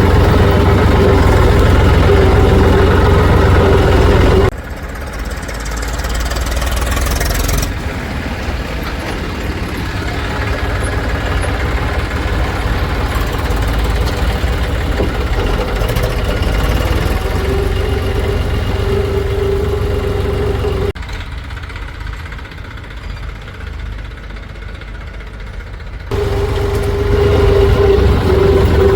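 Diesel engine of a backhoe loader or farm tractor running steadily at work. The engine sound and its loudness change abruptly several times, about 4 s in, about 8 s in, about 21 s in and near 26 s in.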